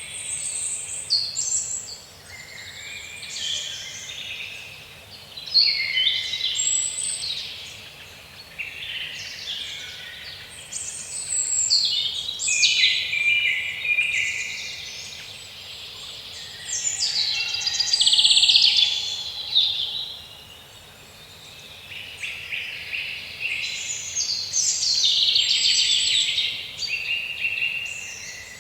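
Several songbirds singing over one another, a dense chorus of high chirps and trills with brief lulls every few seconds.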